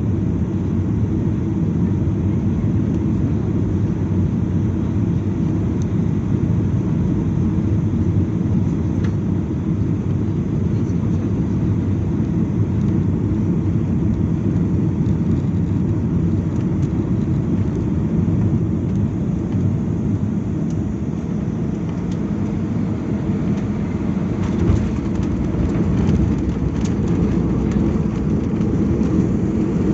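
Steady low rumble of jet airliner cabin noise, the engines and airflow heard from inside the passenger cabin, with a brief small knock about 25 seconds in.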